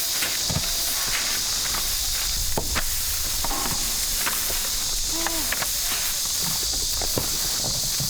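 Steady high-pitched drone of summer insects, with scattered sharp clicks and knocks.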